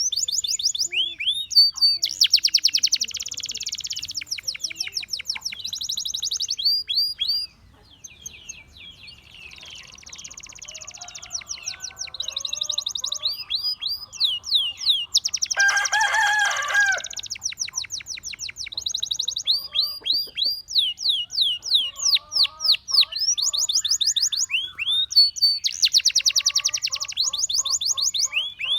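Gloster canary singing: fast runs of repeated high falling notes and rolling trills, broken by short pauses. About sixteen seconds in comes a louder, lower-pitched call lasting a second or so.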